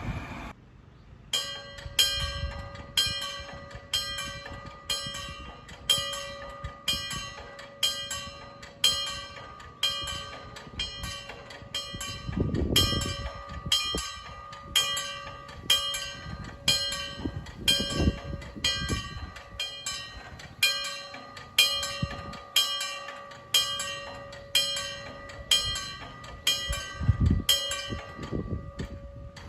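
Railway level-crossing warning bell starts about a second in and rings with steady, evenly spaced strokes, the signal that the barriers are coming down for an approaching train. Wind rumbles on the microphone now and then.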